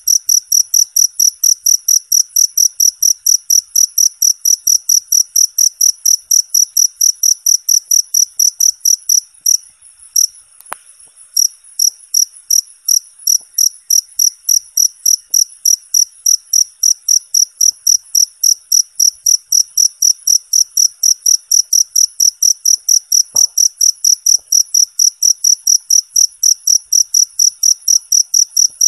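Cricket chirping steadily, a high-pitched, even pulse of about four chirps a second, with a brief break about ten seconds in.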